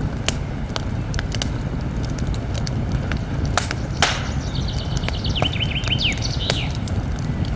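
Campfire crackling, with scattered sharp pops over a steady low rumble of the flames. A small bird chirps a quick run of notes from about halfway through.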